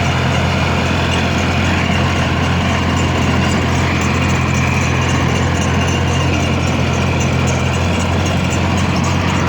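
Engine of a rotary tiller running steadily as it mills the soil between garlic rows, a constant low engine drone that does not change in speed.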